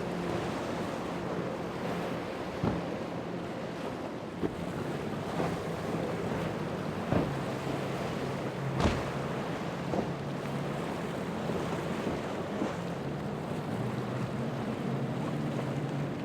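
A boat engine runs with a low steady drone under wind buffeting the microphone and the wash of waves, with several sharp slaps scattered through.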